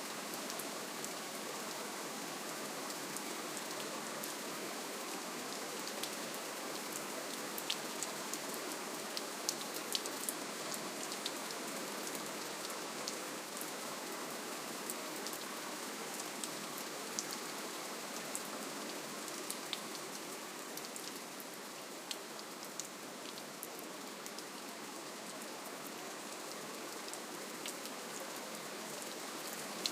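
Steady rain falling, a soft even hiss with many small drop ticks scattered through it, a little denser about a third of the way in.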